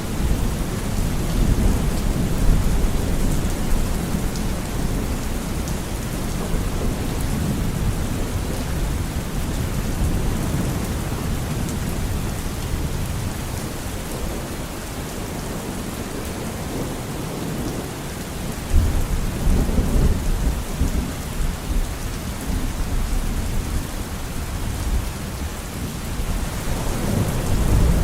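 Steady rain falling, with low rumbles of thunder underneath; a sudden thunderclap rumbles in about two-thirds of the way through and another swells near the end.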